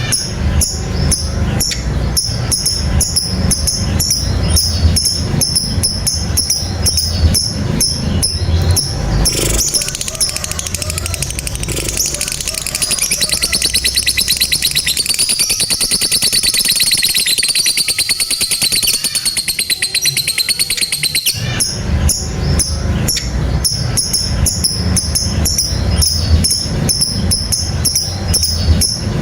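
Lovebird giving a long 'ngekek': a rapid, high, rattling trill held unbroken for about twelve seconds in the middle. Before and after it comes a rhythmic sound with a steady beat and a strong low end.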